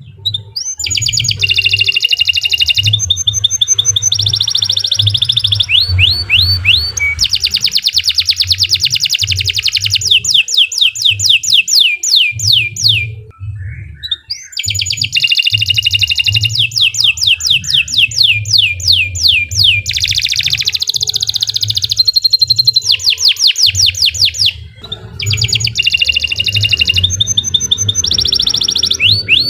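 Domestic canary singing a long, loud song of fast rolling trills and rapid repeated chirping phrases, high in pitch. The song breaks off briefly about 13 and 24 seconds in.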